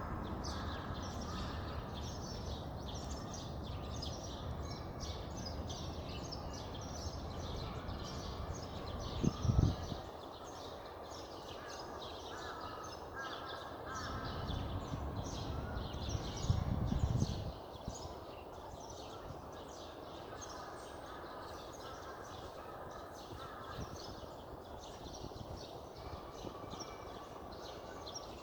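Small birds chirping continuously, many short high chirps overlapping, over a low steady background rumble. Two louder low rumbles stand out, a brief one about nine seconds in and a longer one around seventeen seconds in.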